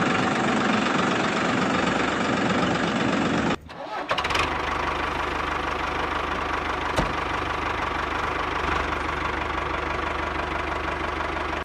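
Mini model tractor running, a steady mechanical engine-like drone with a brief break about three and a half seconds in.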